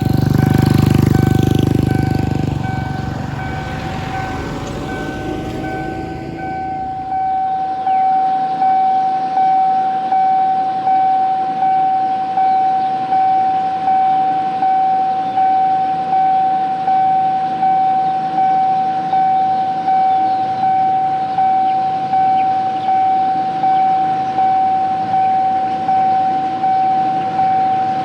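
A railway level-crossing warning bell rings in an electronic tone, pulsing about once a second. For the first few seconds a diesel train's low rumble sounds under it and fades away.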